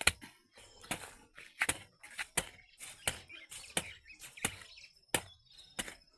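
A jembe hand hoe digging into wet soil, striking the ground in a steady rhythm of sharp chops, roughly three strikes every two seconds.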